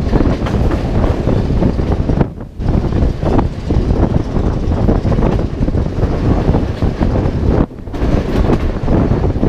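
A moving train running on the rails, its dense rumble mixed with wind buffeting the microphone. The noise dips briefly twice.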